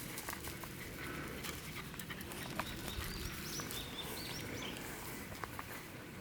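A small songbird sings a quick run of high, chirping notes starting about three seconds in, over scattered light clicks and a steady low rustle of footsteps on a damp trail.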